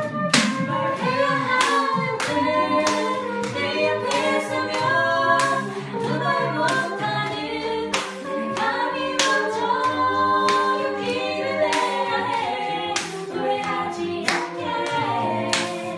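Small vocal group singing a cappella in several-part harmony, with sharp percussive hits on a steady beat, about one and a half a second.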